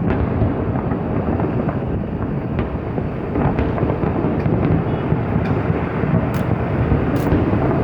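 Fireworks display: a continuous low rumble of overlapping aerial shell bursts, with a few sharp crackles near the end.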